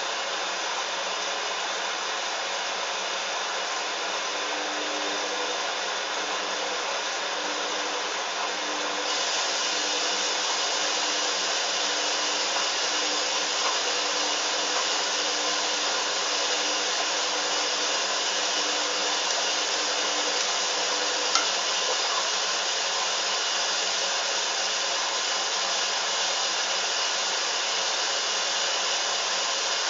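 Hoover washing machine running with a steady whir from its motor and drum, stepping up louder about a third of the way in, with a single sharp click about two-thirds of the way through.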